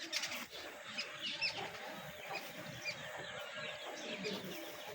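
Many birds chirping and twittering at once, a busy stream of short overlapping calls.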